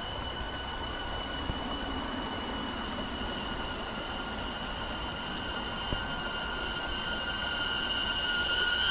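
Small camera drone's propellers whining at a steady high pitch, growing louder near the end as the drone comes closer.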